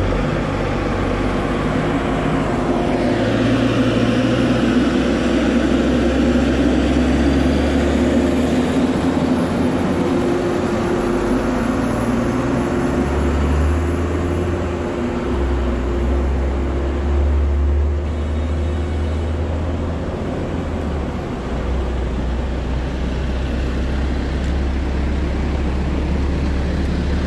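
Diesel engine of a heavy logging machine running steadily, its low engine note shifting in level a few times.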